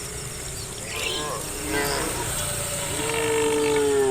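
Cattle mooing: two short calls, then one long moo starting about three seconds in that drops in pitch as it ends. Insects chirp steadily underneath.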